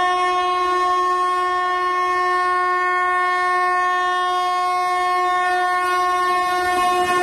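Namo Bharat Rapid Rail train's horn sounding one long, loud, steady blast, with the rumble of the approaching train rising near the end.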